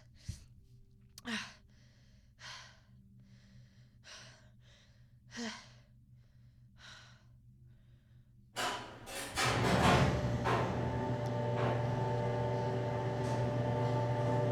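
A woman sighing and breathing heavily, a handful of soft breaths about a second apart. About nine seconds in, a loud whoosh leads into a steady low hum with several held tones.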